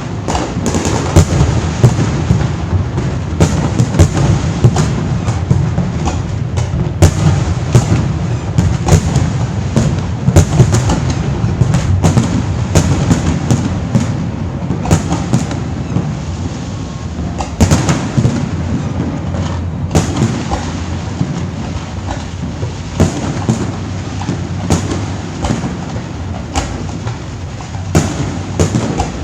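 Fireworks display: many sharp bangs and cracks at irregular spacing over a continuous low rumble of booming shells.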